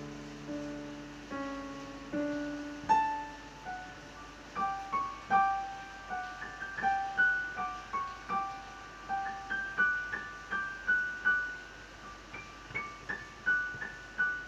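Slow piano music: low held chords give way to a melody of single, higher notes that each ring and fade.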